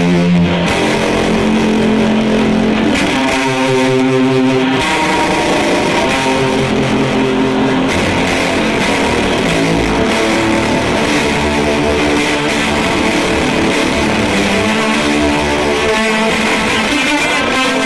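Electric guitar playing sustained notes and chords through a chorus pedal into a miked Fender Deluxe Reverb amp, with the notes changing every second or two.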